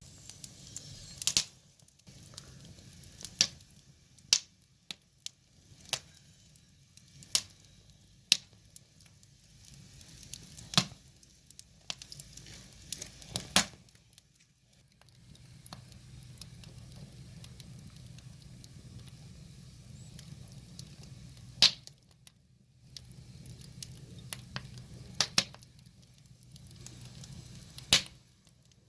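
Wood fire crackling: sharp, irregular pops and snaps every second or two over a soft, steady hiss of burning logs.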